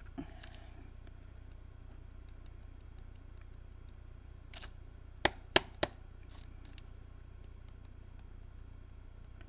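Three sharp knocks in quick succession about halfway through, like a card being tapped on a worktable to shake off loose glitter, over faint, evenly spaced ticking.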